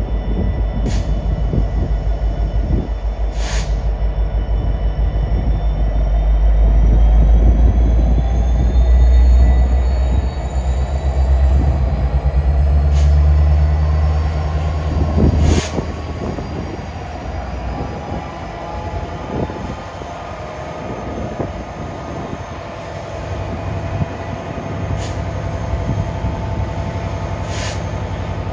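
Canadian Pacific EMD SD70ACu diesel locomotive leading a double-stack intermodal train at a crawl. The engine's low rumble is strongest in the first half and eases after about fifteen seconds, with thin high wheel squeal drawn out in slowly rising tones and a handful of sharp clicks.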